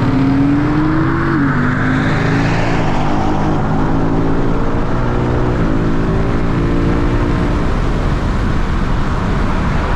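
Car engine at full throttle in a highway pull, rising in pitch through the gears with sharp drops at the upshifts about a second and a half, three and nearly six seconds in, then settling into steady wind and road noise at speed.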